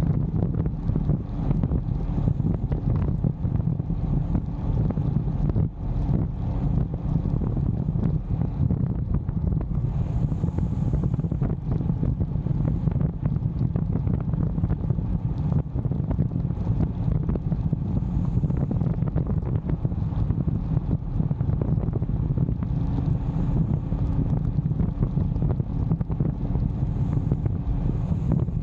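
Wind buffeting the microphone of an action camera on a moving motorbike: a steady low rumble with constant gusty flutter.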